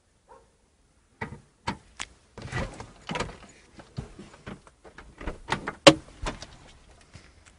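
A run of irregular sharp knocks, bumps and clatters starting about a second in, some much louder than others.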